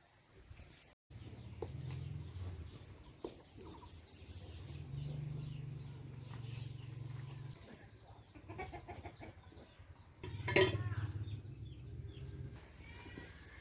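Chickens clucking, with a louder call about ten and a half seconds in, over a low rumble.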